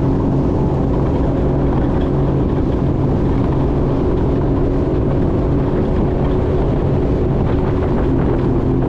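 Jet ski engine running steadily under way, an even drone with no change in pitch.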